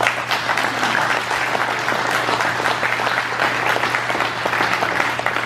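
Audience applauding, many people clapping steadily, over a steady low hum.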